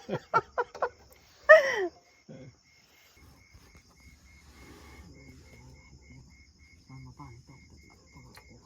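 A woman laughing in short bursts for the first second, then a brief exclaimed syllable. After that, a faint insect chirping with an even, steady beat of about two to three chirps a second, under faint low voices.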